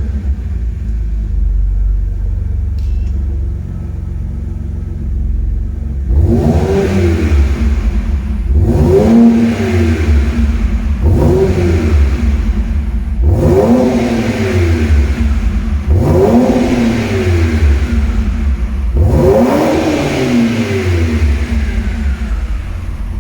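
BMW 330i straight-six exhaust through an aftermarket active catback, idling steadily at first. From about six seconds in, the engine is blipped and revved about six times, each rev rising and falling back to idle.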